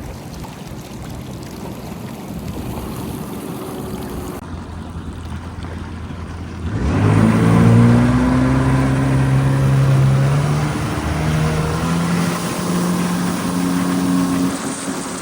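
Jet ski engine running on the water, growing gradually louder. About seven seconds in it is throttled up sharply and runs loud at high revs, its pitch wavering up and down.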